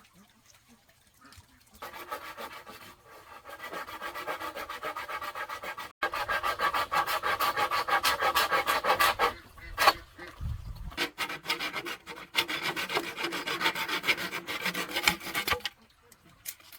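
A hand tool rasping against bamboo or wood in fast, even strokes. It starts about two seconds in, grows louder, pauses briefly midway, then goes on until shortly before the end.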